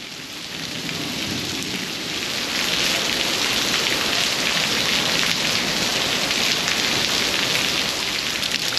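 Heavy rain pouring down, a dense steady hiss that swells over the first few seconds and then holds.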